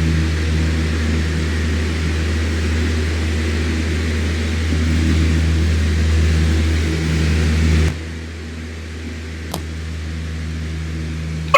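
Electric fan running steadily: a low motor hum under a rushing hiss of air. About eight seconds in the sound drops abruptly to a quieter, thinner hum, followed by a faint click and then a sharp click near the end.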